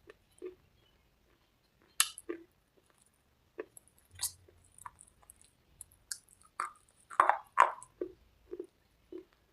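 Close-up chewing of crunchy cubes and red slate paste: irregular sharp crunches, the loudest few coming in a quick cluster near the end, with softer wet mouth sounds between them.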